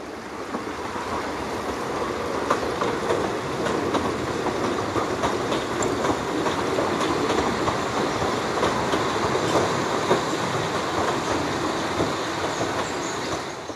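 Narrow-gauge train running along the track, a steady rumble with wheels clattering on the rail joints, fading out near the end.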